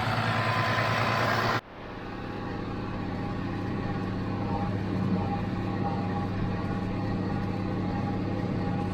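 International Harvester 886 tractor's diesel engine running, with a rushing noise that cuts off suddenly about a second and a half in, followed by a steady engine hum with a faint steady whine as it works in the hay field.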